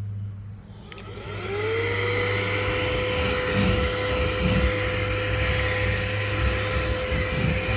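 HŌM cordless air duster and mini vacuum switching on with a click about a second in, its high-speed motor whining up to speed within about half a second and then running steadily with a rush of air, fitted for vacuuming.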